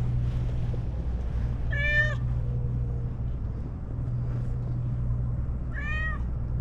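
A cat meows twice, about two seconds in and again near the end, each a short rising-then-falling call. Underneath is the steady low drone of a boat engine.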